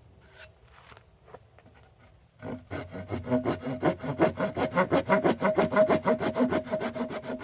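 Hand saw cutting wood in quick, short back-and-forth strokes, about eight a second, starting about two and a half seconds in after a few light taps. It is starting a kerf in the panel to give a plow plane a head start on a groove.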